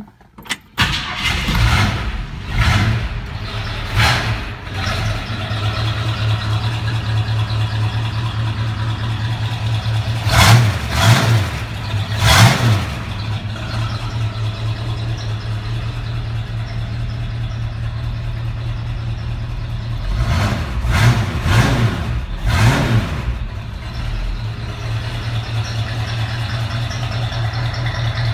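1965 Ford Mustang engine starting up, then idling with short revs: a couple of blips shortly after it catches, three revs near the middle, and three more a little later, each dropping back to a steady idle.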